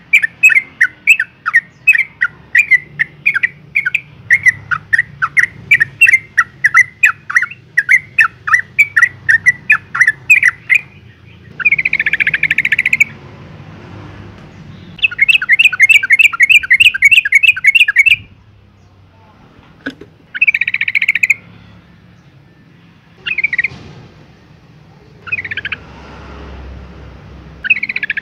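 Yellow-vented bulbul calling: a long run of quick, clipped chirps, about three a second, for roughly the first ten seconds, then a dense chattering burst, another quick run of chirps, and a few short bursts spaced a couple of seconds apart. It is put forward as a female in breeding condition calling for a male.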